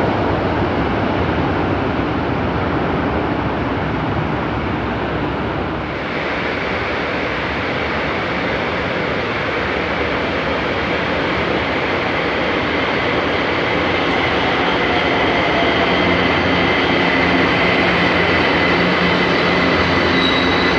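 São Paulo Metro Line 2 train running in the station, a steady loud rumble and rail noise. About six seconds in the sound changes abruptly, and a high steady whine comes in and grows stronger toward the end.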